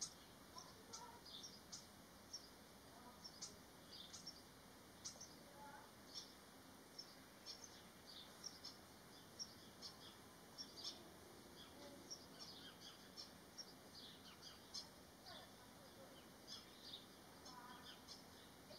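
Near silence with faint, scattered high chirps of birds calling in the background.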